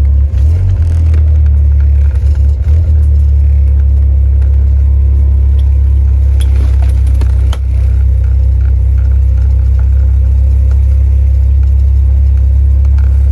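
A car running with a loud, steady low rumble, with brief dropouts in the first three seconds and a short dip about seven and a half seconds in.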